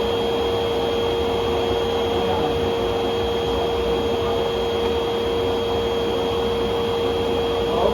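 Eureka vacuum cleaner with a 12-amp motor running steadily: an even rush of air with a constant whine.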